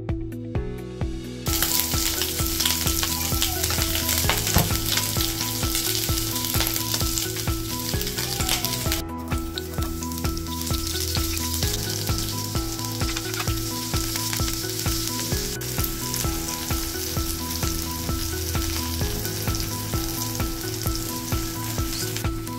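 Pork cubes sizzling as they sear in hot oil in a frying pan, turned with a spatula. After a brief break about nine seconds in, sliced onions sizzle in oil as garlic is added and stirred, with background music with a steady beat underneath.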